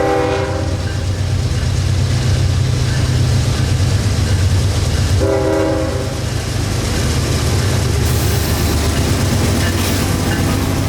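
Freight train's diesel locomotive horn, with two short blasts: one at the start and another about five seconds in. Underneath runs the steady low rumble of the locomotive engines and the train.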